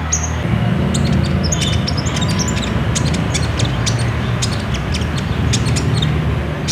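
Kolibri ninja sunbirds chirping in rapid, short, high notes in a trotol-style song from several birds together, with a steady low rumble underneath.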